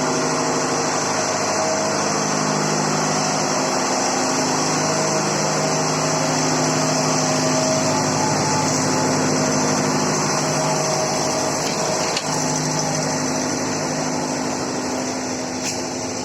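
Steady running noise of a train, with an engine-like hum that shifts pitch slightly a few times and a short click about twelve seconds in.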